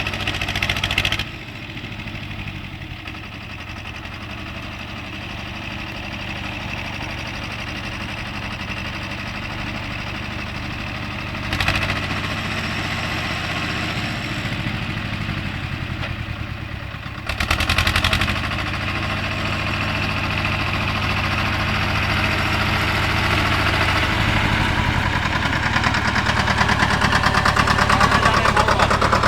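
BJR Falcon 40 articulated tractor's engine running steadily, surging briefly a few times and climbing in revs over the last several seconds.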